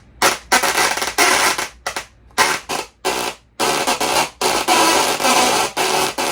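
Musical Tesla coil playing a tune with its sparks: harsh, buzzing notes, short and separated by gaps at first, then running almost without a break from a little past halfway.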